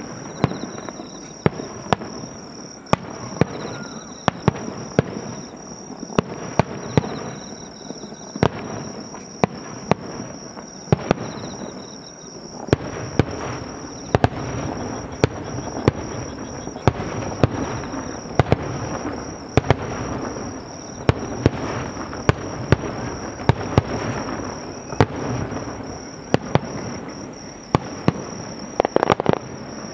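Aerial fireworks display: sharp shell bursts at irregular intervals, several a second at times. About halfway through, the bursts come thicker over a continuous crackling wash, and a quick flurry of bursts comes near the end.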